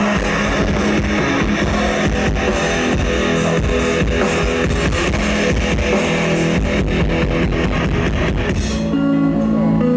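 Heavy rock band playing live, with distorted electric guitars and a drum kit. About nine seconds in, the drums and heavy guitars drop out, leaving a lighter picked guitar melody.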